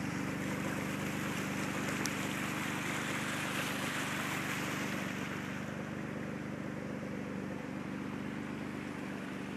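Floodwater rushing down a swollen creek, a steady wash of noise that swells a little about halfway through, with a vehicle engine idling low underneath.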